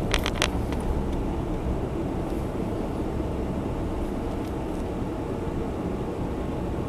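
Steady driving noise heard from inside a Honda Zest Spark kei car: engine and road rumble at cruising speed. A few quick sharp clicks come just after the start.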